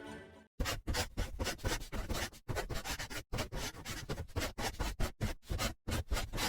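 Bamboo being split and scraped by hand: a rapid, irregular run of scratchy rasping strokes, about three a second, broken off abruptly by short silences a few times.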